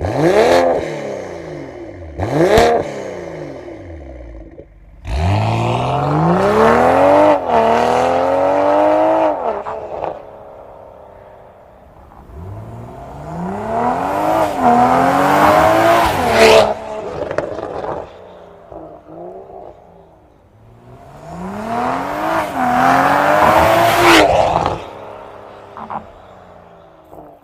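BMW X3 M40i's turbocharged 3.0-litre inline-six through an aftermarket Stone exhaust system: two short throttle blips, then three hard pulls, each climbing in pitch for several seconds with a brief dip partway through, dropping back to a lower drone between them.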